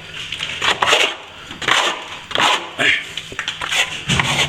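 A metal plastering tool scraping against a surface in repeated short strokes, about two a second.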